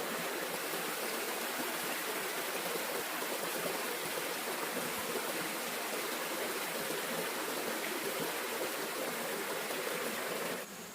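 Steady rush of flowing stream water, starting and ending abruptly.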